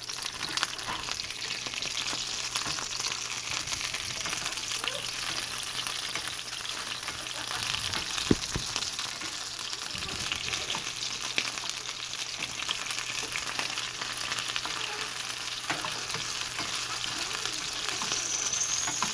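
Cicadas frying in hot grease: a steady sizzle full of small crackles and pops, with one sharp knock about eight seconds in.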